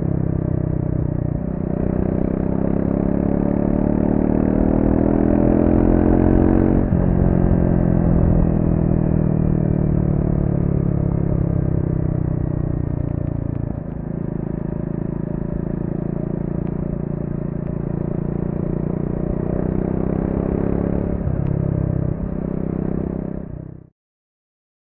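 Triumph Speed 400's single-cylinder engine through its stock exhaust, riding: the revs climb for several seconds, drop sharply at an upshift, then the engine runs steadily at lower revs with a brief dip about halfway and another change near the end. The sound cuts off suddenly just before the end.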